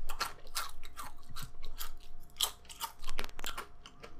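Close-up crunching and chewing of crisp tortilla chips in the mouth: irregular sharp crunches a few times a second, with a quick run of crunches about three seconds in.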